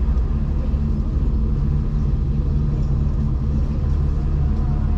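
V/Line passenger train running along the track, heard from inside the carriage as a steady low rumble.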